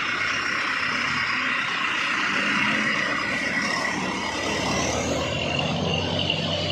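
A heavy truck's engine running under load on a steep climb: a steady rumble and mechanical noise, with the engine note strengthening near the end.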